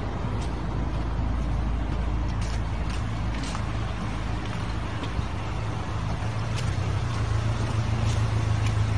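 A motor vehicle's engine running steadily with a low hum that grows louder about seven seconds in, with a few faint ticks.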